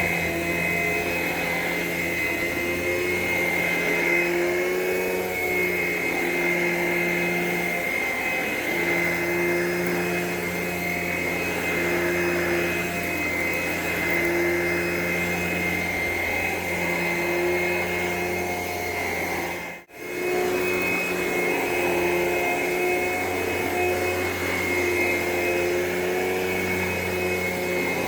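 Vacuum cleaner running steadily, its motor giving a constant high whine over a lower hum, while a classroom floor is vacuumed. The sound cuts out for an instant about two-thirds of the way through.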